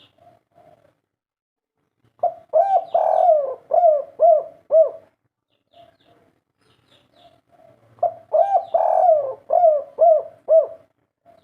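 Spotted dove cooing in its 'kuk 3' song: two phrases a few seconds apart, each a run of about six arched coos, with softer short notes in between.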